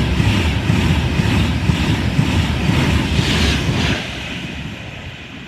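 Passenger train passing through the station at speed: a loud rush of wheels and air that drops away about four seconds in.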